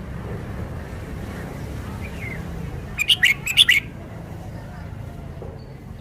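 Red-whiskered bulbul singing a short, quick run of loud, sharp notes about three seconds in, over a steady low background rumble.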